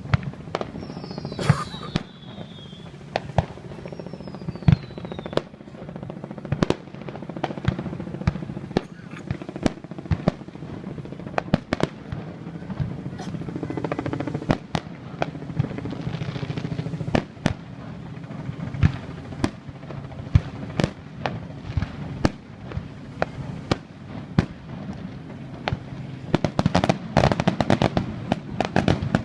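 Fireworks display: irregular booms and cracks of aerial shells bursting. Two falling whistles sound in the first few seconds, and the bursts build to a dense, rapid barrage near the end.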